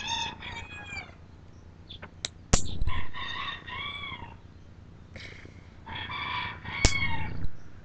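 Bantam Polish hen calling in three drawn-out, wavering bouts while held for nail trimming, with a few sharp snaps of nail clippers between the calls.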